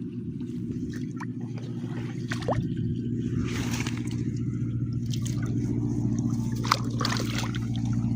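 Hands splashing and dripping in the shallow muddy water of a rice field, with short bursts of sloshing and trickling. A steady low hum runs underneath.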